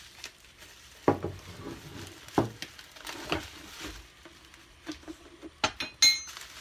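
Metal parts of a tiller hiller-furrower attachment being handled and set down: a few separate knocks and clunks, then a sharp clink that rings briefly near the end.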